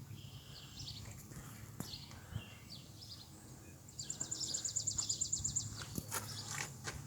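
Outdoor ambience with a bird's fast, high trill about four seconds in, lasting under two seconds, plus scattered chirps and a few light clicks.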